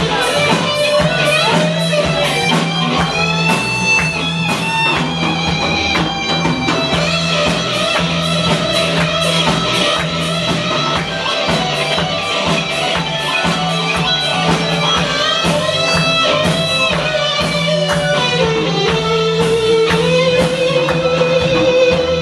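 Instrumental break of a rock song: a lead guitar plays a melody of held notes with pitch bends, ending on a note with vibrato, over a strummed backing guitar, bass and steady drums.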